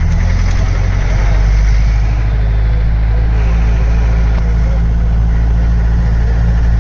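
Car engine and road noise heard from inside a moving car: a loud, steady low drone.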